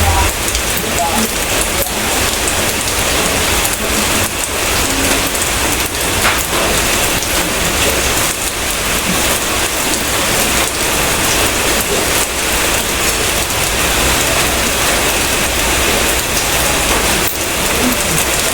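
Steady, heavy rain falling, with many individual drops ticking close by.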